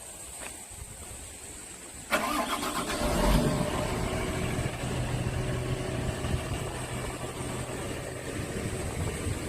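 Diesel engine of a wheeled excavator cranking and starting about two seconds in, then idling steadily.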